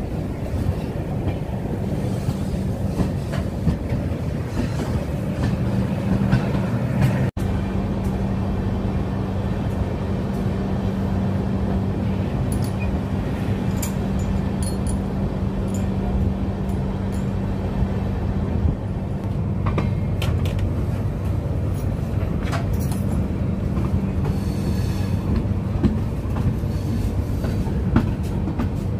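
Passenger express train running along the track, heard from on board: a steady rumble of wheels on rails with a low hum and scattered clicks.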